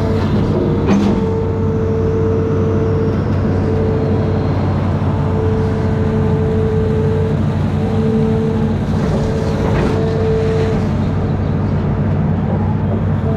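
Amphibious excavator's diesel engine running steadily, with a whine that cuts in and out several times over the hum.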